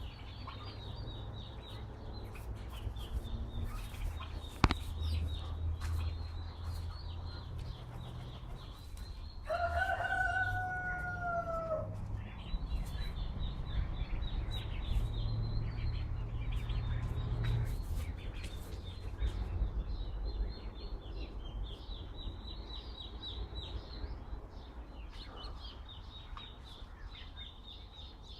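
A rooster crows once, a long call about ten seconds in that falls slightly at the end. Small birds chirp throughout, over a steady low rumble of wind on the microphone.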